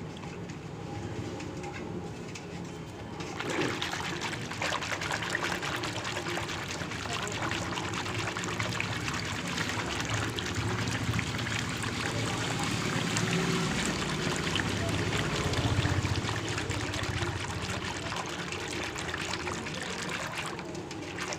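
Water pouring steadily into a container, starting about three and a half seconds in, as a dishwash bar is worked up into a lather.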